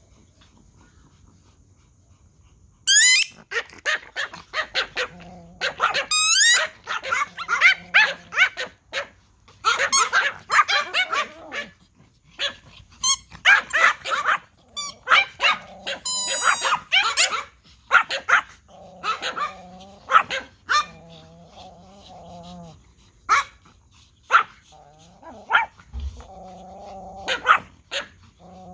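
Several Pomeranian toy dogs barking in rapid, high-pitched yapping bursts that start suddenly about three seconds in. In the second half the barking thins out into lower, wavering drawn-out calls between occasional sharp yaps.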